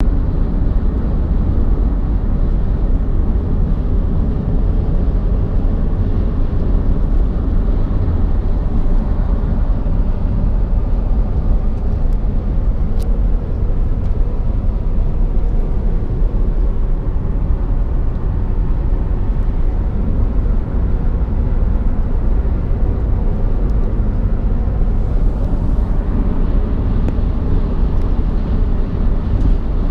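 Steady low rumble of a car on the move: road and wind noise, with a few faint ticks.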